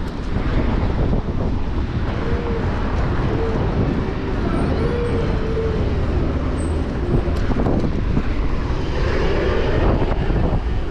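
Steady wind noise on the microphone of a moving bicycle, with city street traffic around it. A few short wavering tones come through a couple of seconds in.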